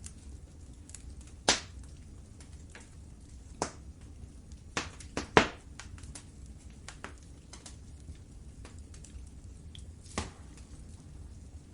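Wood fire in a fireplace crackling, with irregular pops of varying strength. Two louder snaps come about a second and a half in and again about five seconds in, over a low steady rumble.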